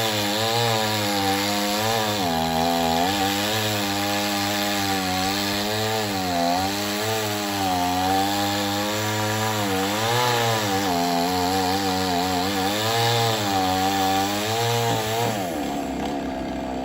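Chainsaw cutting through wood at full throttle, its engine pitch dipping and recovering as the chain bogs under load. About 15 seconds in, the engine pitch falls sharply as it drops back to idle.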